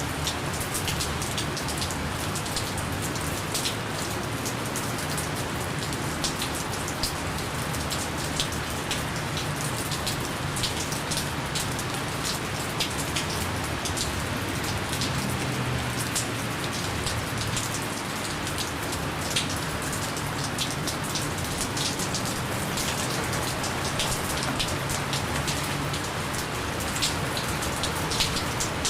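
Steady gentle rain falling, with many individual drops ticking sharply against a constant hiss.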